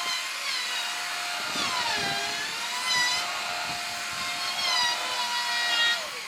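Handheld electric power tool cutting or shaping wood. Its high motor whine dips and recovers as the bit or blade bites, then falls in pitch as the tool winds down near the end.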